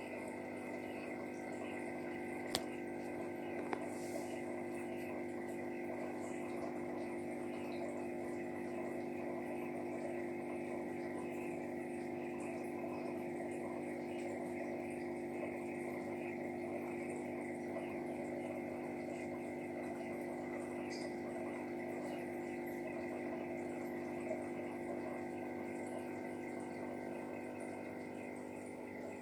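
Steady hum of a small motor with several fixed tones and a faint watery hiss beneath it, with two soft clicks a few seconds in.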